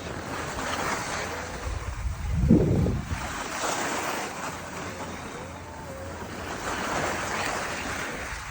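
Wind rushing over the microphone, swelling and fading in gusts, with a heavy low buffet about two and a half seconds in.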